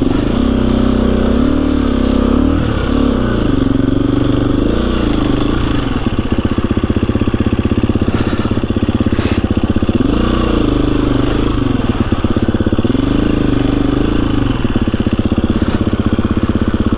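KTM 350 EXC-F's single-cylinder four-stroke engine revving up and down under throttle as the dirt bike works through deep snow, with a stretch of slow, even low-rpm pulsing in the middle. A sharp click about nine seconds in.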